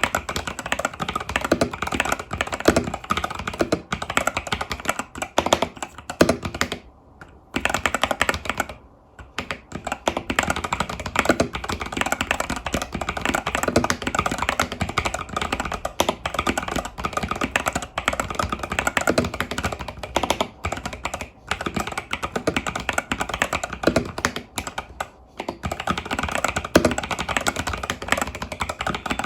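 Fast typing on an Epomaker TH80 Pro mechanical keyboard with Epomaker Budgerigar tactile switches and stock keycaps: a dense, continuous run of key clacks with short pauses about seven, nine and twenty-five seconds in.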